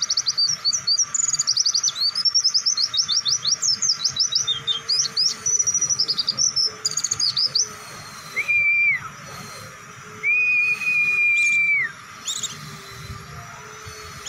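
White-eye (pleci) singing a rapid, chattering run of high chirps in the fast 'bren' style, then two long level whistles in the second half, the second longer than the first.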